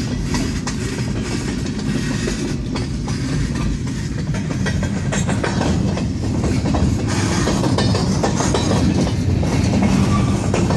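Freight train of gondola cars rolling past, steel wheels clacking and rattling over the rails in a steady stream of clicks.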